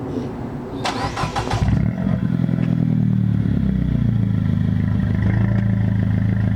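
2009 Mini Cooper S (R56) turbocharged 1.6-litre four-cylinder engine starting warm: the starter cranks briefly about a second in, the engine catches, flares up in revs and settles to a steady idle by about four seconds. The exhaust note comes through a Flowmaster Super 10 muffler on an Invidia Q300 cat-back with the resonator deleted.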